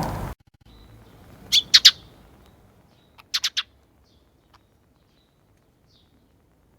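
Sparrow chirping: two quick runs of three short chirps about a second and a half apart, then one faint chirp.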